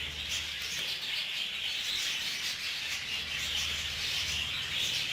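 A flock of budgerigars chattering and chirping continuously, over a faint steady low hum.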